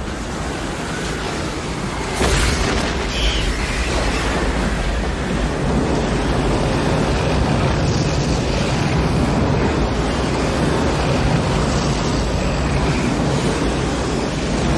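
Tornado wind blowing hard, a dense rushing noise with a heavy low rumble; a gust makes it suddenly louder about two seconds in, and it stays strong after that.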